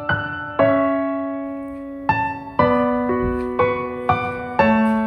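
Background music: a slow, gentle solo piano melody, single notes struck one after another and left to ring out.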